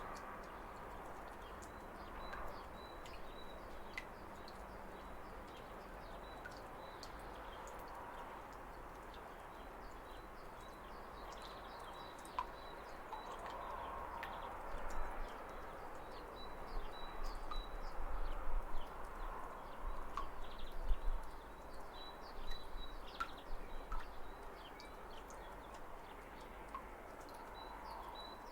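Small waterfall splashing and burbling steadily, with birds chirping over it in short high notes and a thin high note that comes and goes. The water swells louder and more uneven in the middle.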